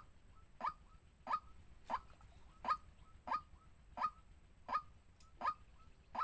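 White-breasted waterhen calling: a short note that drops in pitch, repeated evenly about one and a half times a second.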